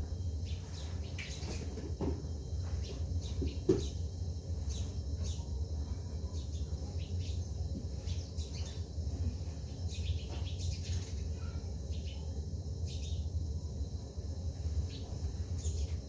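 Small garden birds chirping in short, scattered calls over a steady low hum.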